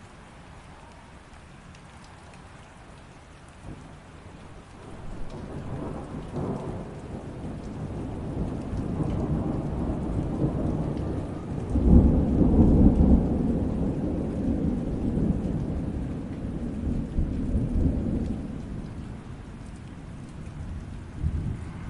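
Steady light rain with a long roll of thunder. The rumble builds about a quarter of the way in, is loudest just past the middle, and dies away near the end.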